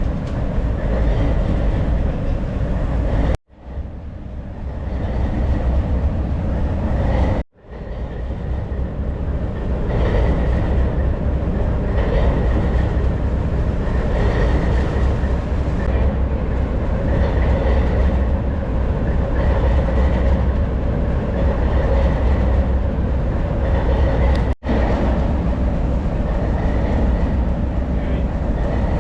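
Alco FA locomotive's diesel engine running steadily after startup, a loud, deep rumble. The sound cuts out abruptly and briefly three times.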